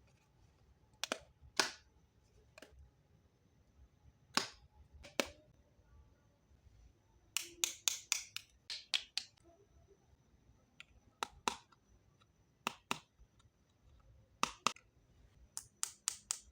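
Small plastic toy kitchen pieces clicking and tapping as they are handled and set down. Scattered sharp clicks, with a quick run of them about halfway through and another near the end.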